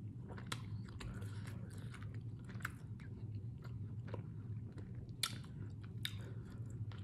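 A person chewing and biting food close to the microphone, with scattered sharp wet mouth clicks. A low steady hum runs underneath.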